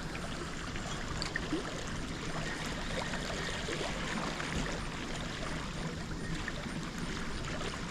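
Steady rush of flowing water, with a few faint clicks over it.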